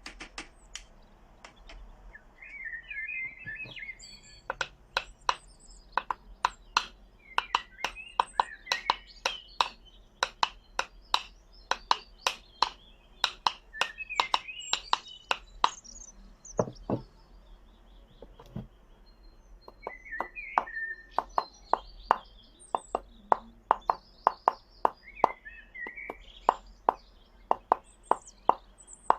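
A run of sharp knocks, about two a second, with a short pause midway, over birds chirping.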